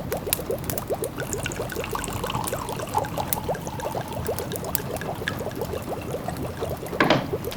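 A pot of food simmering, bubbling in quick, steady succession, with the sharp clicks of a crackling wood fire over it. A louder burst of crackle and bubbling about seven seconds in.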